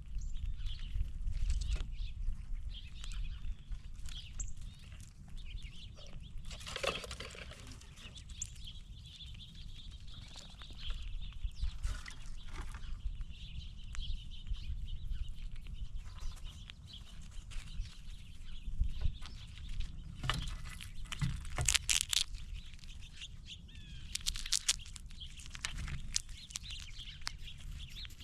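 Birds calling and chirping, with a few louder, harsher calls, over a steady low rumble and scattered small knocks.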